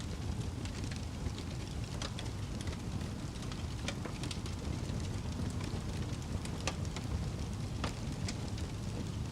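Fire burning in a fireplace: a steady low rumble of flames with scattered sharp crackles and pops at irregular intervals.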